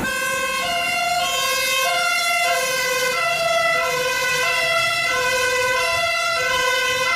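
Fire truck siren sounding a two-tone hi-lo pattern. It switches back and forth between a lower and a higher steady pitch, each note held about half a second.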